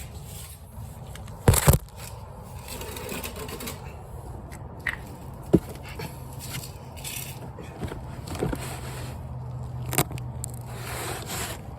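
Scraping and rustling of hands and parts being handled under a car while a new oil filter is brought up to fit. There is a loud double knock about a second and a half in, and a few sharp clicks later on.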